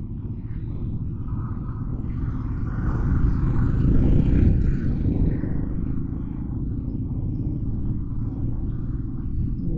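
Motorcycle riding in city traffic, heard from the rider's own camera: a steady low rumble of engine and wind on the microphone, swelling louder for a couple of seconds near the middle.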